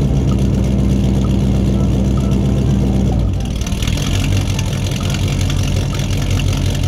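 Tractor engine running steadily; about three seconds in, the engine note changes and drops lower.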